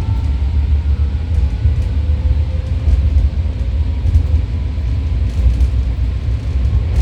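BART train running along the track, heard from inside the passenger car: a steady low rumble with a faint whine.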